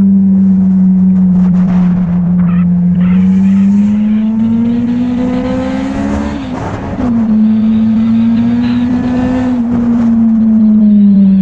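Motorcycle engine running under way, its note climbing slowly, breaking off briefly about six and a half seconds in, then holding steady and dropping near the end.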